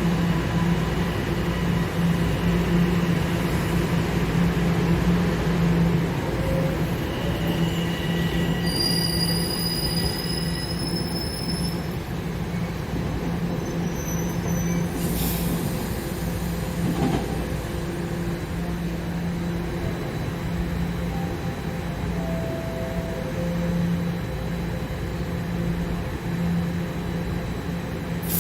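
TTC subway train running at a station with a steady low hum, and a high-pitched wheel squeal about nine seconds in, lasting a couple of seconds. A sharp click or knock comes about halfway through.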